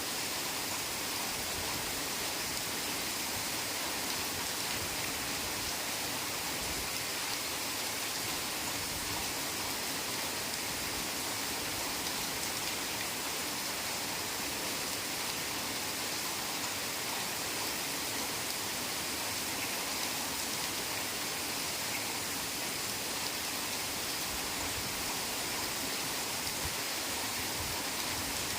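Heavy rain falling steadily on forest foliage, a dense even hiss with no breaks.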